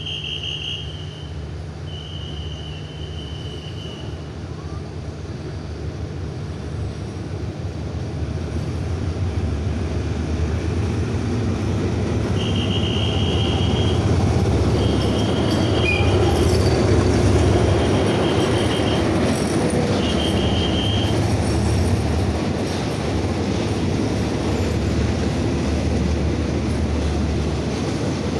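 A diesel locomotive hauling a passenger train runs in alongside the platform. Its engine drone grows steadily louder as it approaches, and it is loudest as the locomotive and coaches pass close by with wheel noise on the rails. Short, high, steady tones sound twice near the start and four more times about halfway through.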